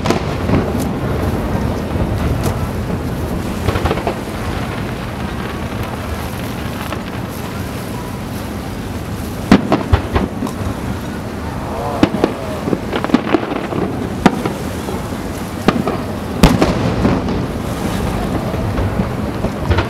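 Aerial firework shells bursting: a continuous low rumble of booms, with a run of sharp, sudden bangs from about halfway on.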